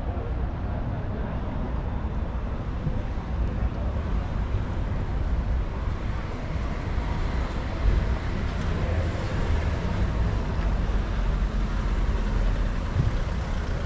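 Steady low rumble of motor vehicle engines running, with street background noise, and a brief louder bump about eight seconds in.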